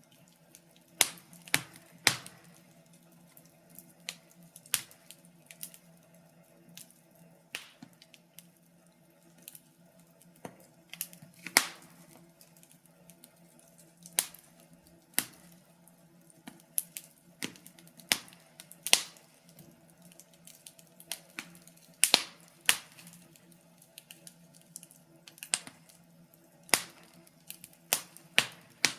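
Wood fire crackling: irregular sharp pops and snaps, a few every couple of seconds and some much louder than others, over a faint steady low hum.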